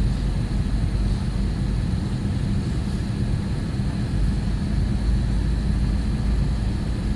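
Steady cabin noise of an Airbus A320-family jet airliner in flight: a low, even rumble of engines and airflow with a faint high whine.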